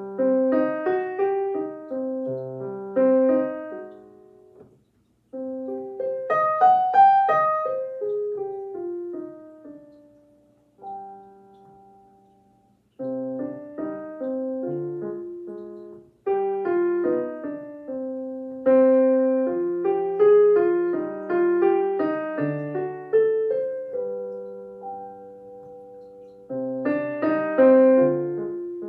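Solo piano playing an elementary minor-key piece, in short phrases with notes that die away and brief pauses between phrases.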